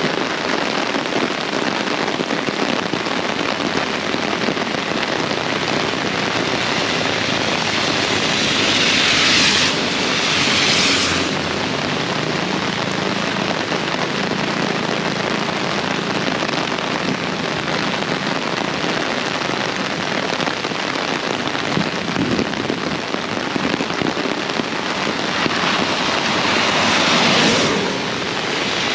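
Heavy rain pouring steadily. Twice, about a third of the way in and again near the end, a louder rushing swell builds and then drops off suddenly.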